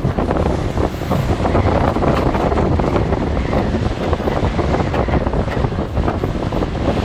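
Strong gusting wind of up to about 50 mph buffeting the microphone in a heavy, rumbling noise that surges and eases, over the wash of large waves.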